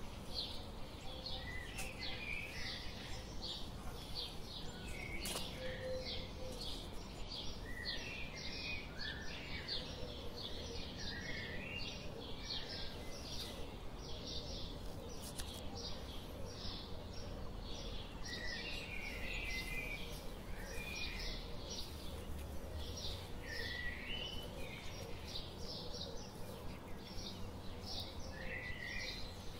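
Birds chirping: many short high calls repeating about twice a second, with lower twittering calls now and then, over faint steady low background noise.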